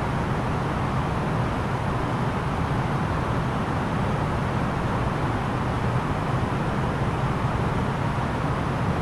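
Steady cabin noise of an Airbus A330-900neo in flight, a constant rush of airflow and engine sound with a low hum underneath, unchanging throughout.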